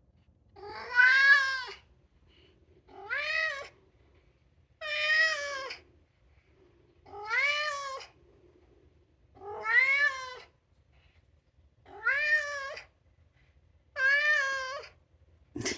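Maine Coon cat meowing over and over: seven drawn-out meows about two seconds apart, each rising and then falling in pitch. The owner takes the calls as the cat asking to go outside.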